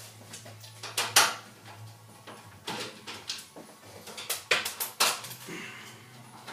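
Irregular sharp clicks and knocks of a screwdriver and hands working on a washing machine's cabinet while the screws holding its top lid are taken out.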